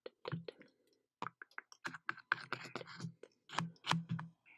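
Rapid, irregular close-miked taps and clicks, several a second, some with a soft low thump under them.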